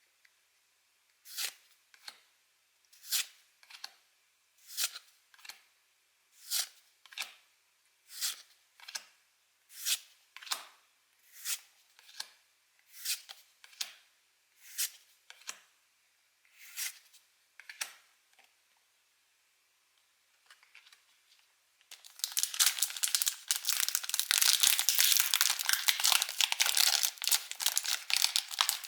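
Pokémon trading cards being slid off a stack one at a time, a short swish about once a second. After a pause, a foil booster-pack wrapper crinkles and tears open, louder and continuous, to the end.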